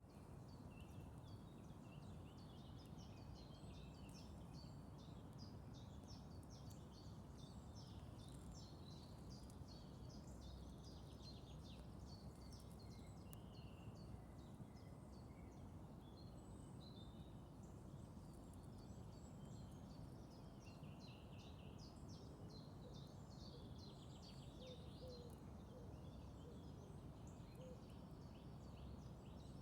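Quiet outdoor ambience: small birds chirping and twittering in rapid short notes throughout, over a steady low background rumble.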